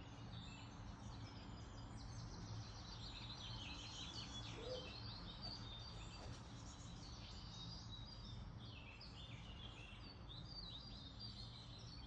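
Faint birdsong: many small birds chirping and twittering in quick, overlapping short calls, over a low steady hum.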